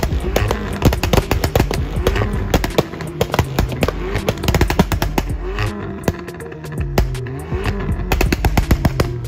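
Mercedes ML SUV engine revving up and down repeatedly as it spins doughnuts with the wheels spinning, over background music.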